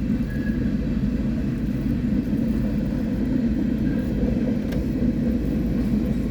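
BNSF diesel locomotives on a rail train, a steady low rumble as the train approaches and moves past.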